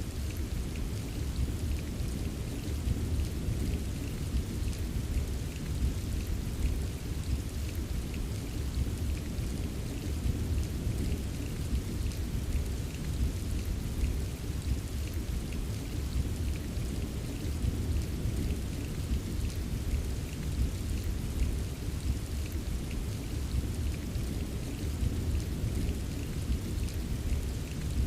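Steady rain falling, with faint scattered ticks of individual drops over a constant low rumble.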